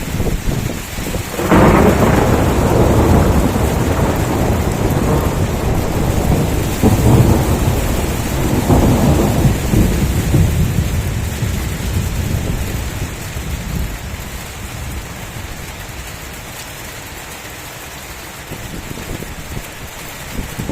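Thunder over steady heavy rain: a sudden crack about a second and a half in becomes a long rolling rumble that swells twice more and dies away over about twelve seconds, leaving the rain hiss.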